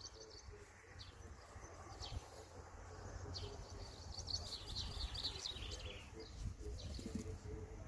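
Small birds chirping faintly, in a flurry of quick high calls about halfway through, over a low steady rumble.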